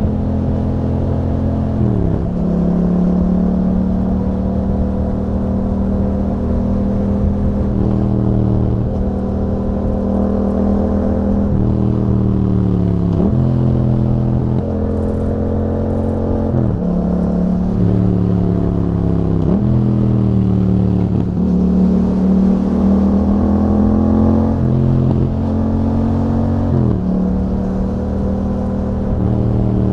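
A 2021 Yamaha MT-07's 689 cc parallel-twin engine running through an aftermarket Akrapovič exhaust with YAHOM dB killers while riding. Its pitch climbs gradually and then drops sharply about six times as the revs rise and fall.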